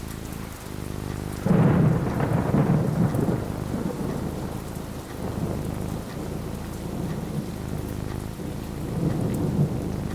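Steady rain falling, with a clap of thunder breaking suddenly about a second and a half in and rolling away over several seconds; a second, softer rumble of thunder swells near the end.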